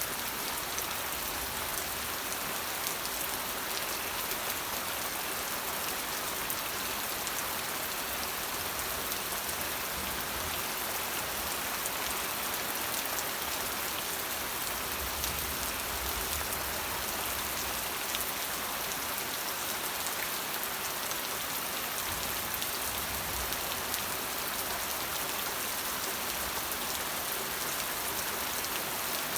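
Steady rain falling on a hard surface, a dense even hiss with many small drop ticks.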